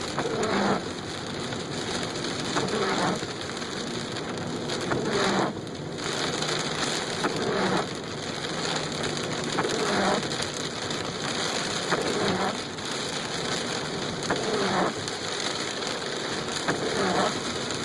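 Heavy thunderstorm rain pouring steadily, with a swishing sound that repeats about every two and a half seconds.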